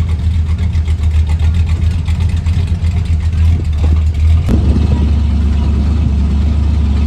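Truck engine running with a deep, steady rumble, with a single sharp click about four and a half seconds in.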